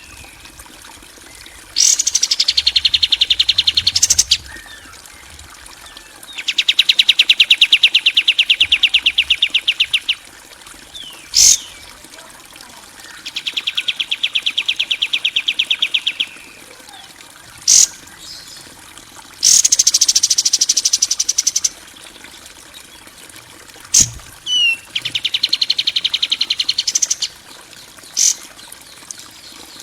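A bird-training recording of harsh, buzzing rattle calls. It comes in repeated phrases of two to four seconds, some a fast even trill and some sweeping down in pitch before holding, with short gaps and single sharp clicks between.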